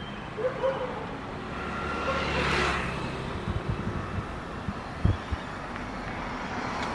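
Road traffic, with a vehicle passing about two and a half seconds in, then a few short low thumps.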